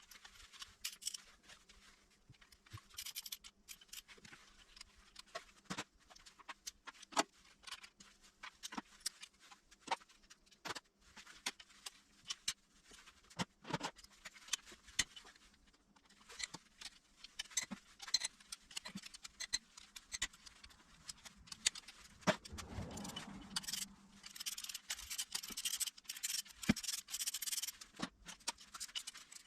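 Hand tools and metal parts clicking, tapping and scraping during work on an engine, with a longer stretch of scraping or rubbing near the end.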